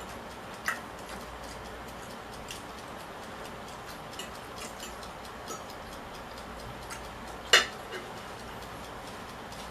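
Scattered light clicks and taps of someone eating from a plate, irregular and sparse, with one sharper clack about seven and a half seconds in, over a steady low hiss.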